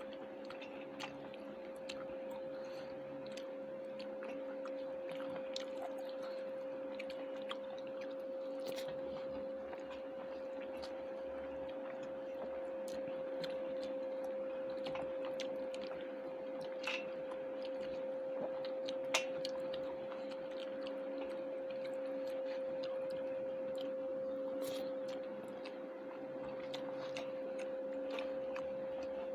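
Close-miked eating sounds: chewing, with small wet clicks and smacks of mouth and fingers as soft, tender meat curry is eaten by hand. A steady hum continues underneath.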